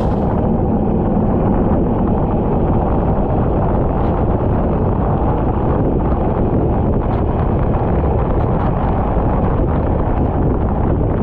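Racing kart running at speed, its engine blurred into a steady, loud low rumble of wind buffeting the microphone.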